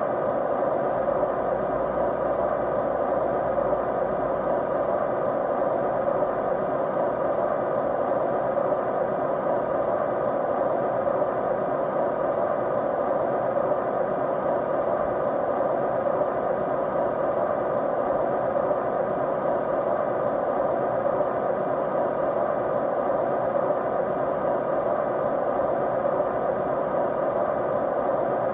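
Steady white noise: an even, unchanging rush, strongest in the middle range, with faint steady tones running through it.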